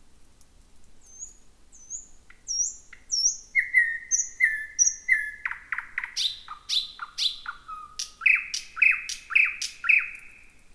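Thrush nightingale singing one song phrase. It opens with soft, high whistled notes about a second in and builds into loud, rapid, repeated clicking strokes and rich notes, two to three a second, stopping just before the end.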